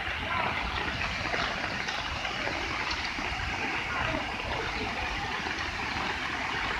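Lembah Anai waterfall in flood, a steady rush of swollen water pouring down and overflowing.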